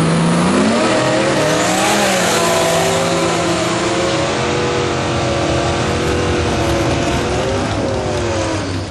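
Lexus IS300 drag car's engine revving up hard in the first second, held at high revs for several seconds with small rises and dips, then falling off near the end.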